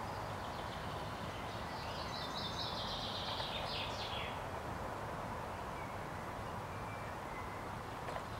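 Outdoor ambience with a steady low rumble, and a small bird singing a quick, rapid-note phrase from about a second and a half in to about four seconds, followed by a few faint short calls.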